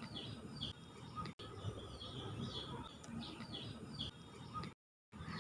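Faint background bird chirping: short falling chirps in loose runs over low room noise, with the sound cutting out for a moment near the end.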